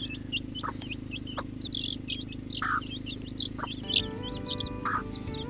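Young chicks peeping busily, many short high chirps a second, with a few lower calls from the mother hen. Soft background music with held tones comes in about four seconds in.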